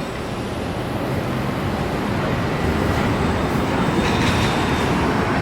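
Steady rumble and hiss of a moving vehicle, growing slightly louder toward the end.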